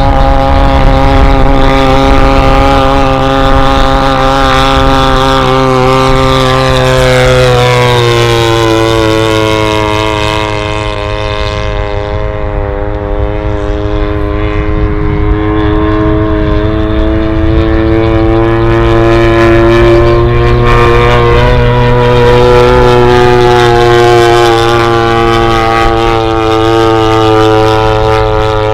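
The Zenoah G-62 single-cylinder gasoline engine of a large-scale RC P-47 running hard as the plane flies. Its pitch drops about a third of the way in and climbs back gradually later on.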